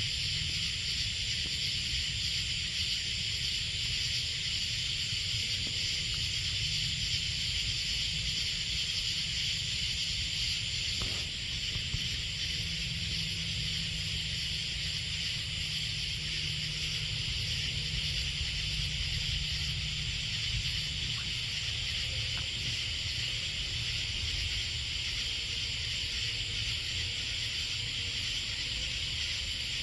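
Steady chorus of night insects, a dense high buzzing with fast pulsing trills, over a low steady rumble.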